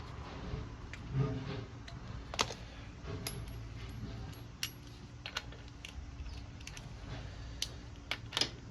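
Scattered sharp clicks and light metallic taps of small hand tools at work on the motorcycle's ignition back plate, irregular and about a dozen in all, the loudest a few near the end, over a faint low steady hum.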